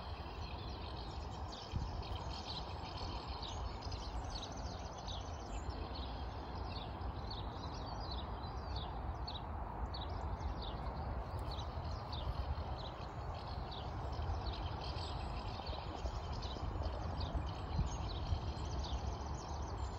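Small birds chirping and twittering, many short high notes in quick succession, over a steady low rumble.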